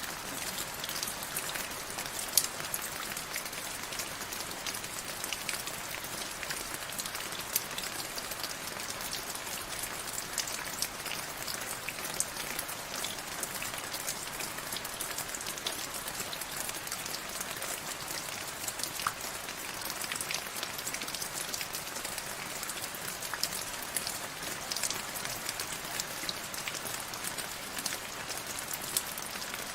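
Steady rain falling, a continuous hiss of many drops with sharper individual drop ticks scattered throughout.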